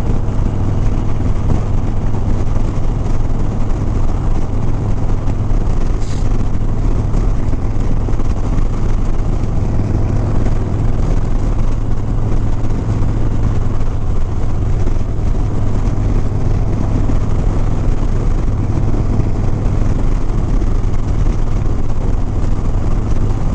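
Harley-Davidson Sport Glide's Milwaukee-Eight 107 V-twin running at a steady cruising speed, with wind noise rushing over the microphone. A short click about six seconds in.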